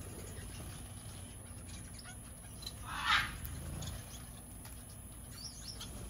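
Small aviary finches and parakeets, with a short loud flutter of wings about three seconds in and a few faint high chirps near the end.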